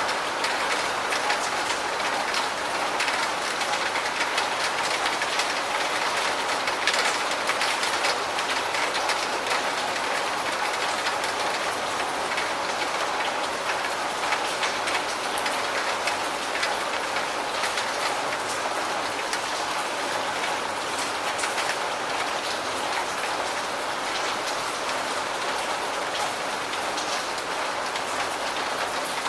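Steady rain falling, with individual drops ticking throughout.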